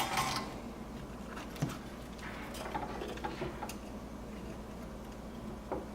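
Soft, scattered clicks and taps of small hand tools working on a circuit board during desoldering, a few separate ticks with quiet between them.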